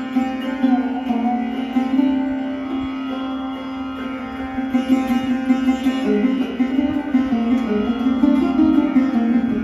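Sarod playing a slow melodic phrase, its plucked notes sliding between pitches over steady ringing drone strings. The notes come quicker and busier from about halfway.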